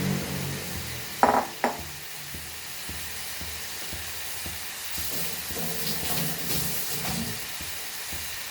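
Marinated chicken sizzling as it fries in a hot pan on high flame, with two loud knocks about a second in.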